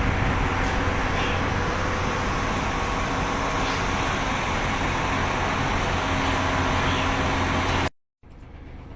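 Steady, loud machinery noise of a concrete batching plant loading a truck mixer, over the low hum of the truck's diesel engine. It cuts off abruptly near the end, after which a quieter engine hum follows.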